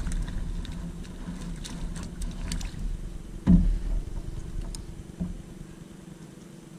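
Handling noise aboard a fishing kayak: light clicks and knocks from rod, reel and gear, over a low wind rumble on the microphone that dies away near the end. One dull thump comes about three and a half seconds in.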